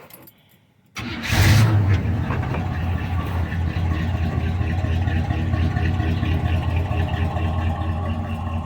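1981 Chevrolet C10's 350 small-block V8 firing up about a second in with a brief flare of revs, then settling into a steady idle through a loud exhaust.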